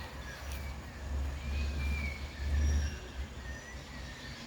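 Forest birds calling with thin, high whistled notes, over a low rumble on the microphone that swells twice.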